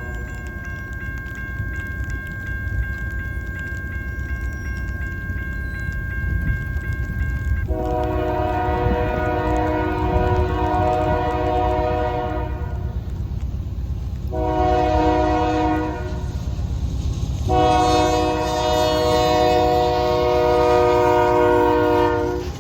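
Norfolk Southern diesel locomotive's multi-tone air horn sounding over the low rumble of the approaching train: a long blast, a short one, then another long one, the end of the grade-crossing signal.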